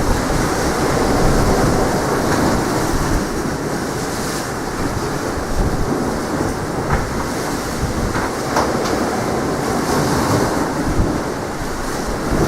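Strong wind rumbling steadily on the microphone, over the wash of sea surf.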